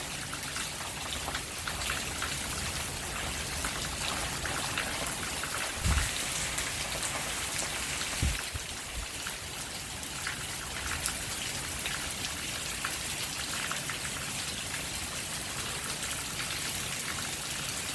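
Steady rain falling and pattering on surfaces, an even hiss with scattered drop ticks. A couple of brief low thumps come about six and eight and a half seconds in.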